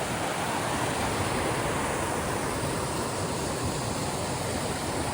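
Steady rushing of river rapids close by, the North Fork Skokomish River's white water.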